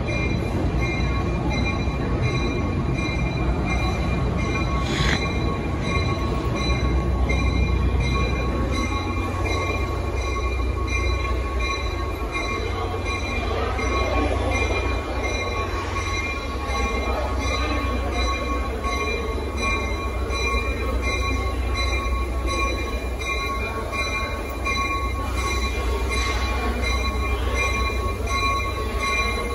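NJ Transit trains at the terminal: a steady low rumble with constant high-pitched whining tones over it, and one sharp click about five seconds in.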